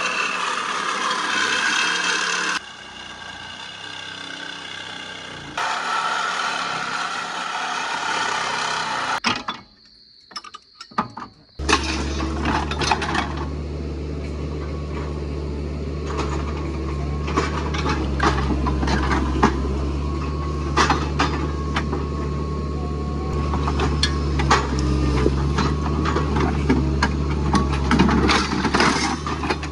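A stretch of steady hiss, then a brief near-silent gap, then a vehicle engine idling steadily with frequent clicks and rattles on top.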